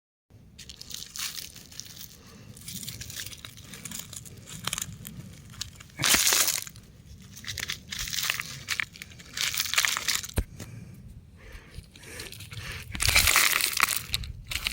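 Rock crumbling, crunching and crackling in irregular bursts. The loudest bursts come about six seconds in and again near the end.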